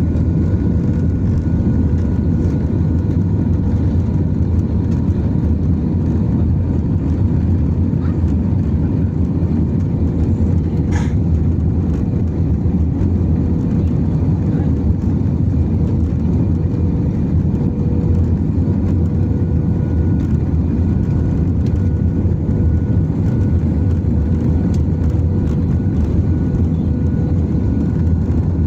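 Aircraft cabin noise in flight: a steady, loud low rumble with a faint constant hum, and one brief tick about eleven seconds in.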